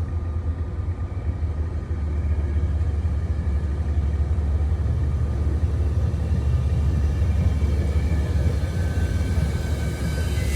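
Steady low rumble of an approaching locomotive-hauled passenger train, with faint tones that rise slightly in pitch near the end.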